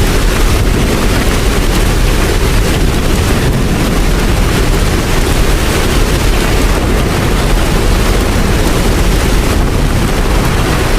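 Steady heavy rain: a dense, unbroken hiss with a deep low rumble underneath.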